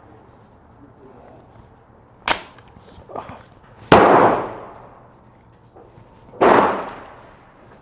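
Airsoft ARP rifle fired in single shots: a light click about two seconds in, then two loud, sharp cracks about four and six and a half seconds in, each ringing out for about a second.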